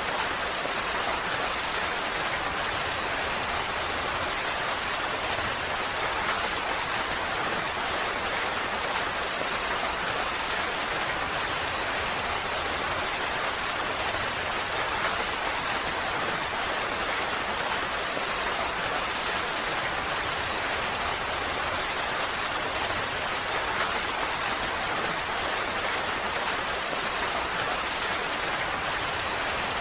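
Steady rain falling, an even hiss with faint scattered drip ticks.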